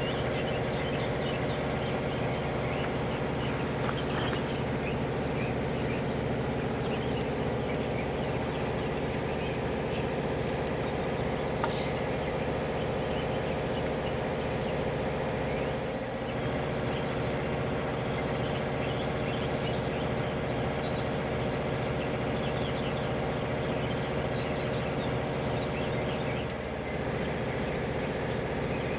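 Steady, unchanging running noise of a train: a constant hum with a held mid-pitched tone over a low rumble.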